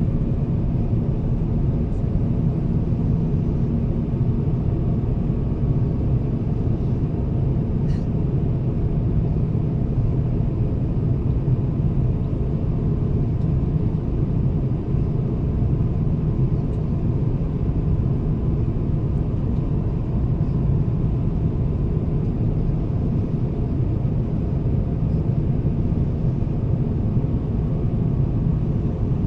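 Steady cabin noise of an Airbus A350-1000 in flight, heard from a passenger seat: an even, low rumble of Rolls-Royce Trent XWB engines and airflow, with a faint click about eight seconds in.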